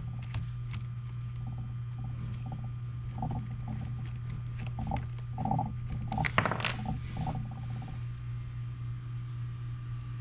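Small squeaks and clicks of hand-tool work on the electric skateboard: screws being turned with a screwdriver and small parts handled, with a cluster of sharper clicks about six and a half seconds in, over a steady low hum.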